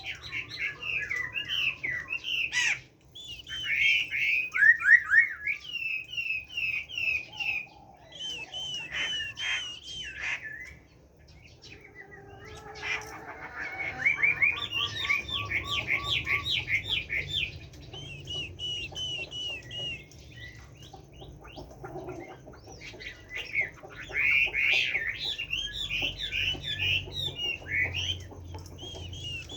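Hwamei (Chinese melodious laughingthrush) singing: long runs of rapid, repeated whistled notes that change phrase every few seconds, with a short lull partway through.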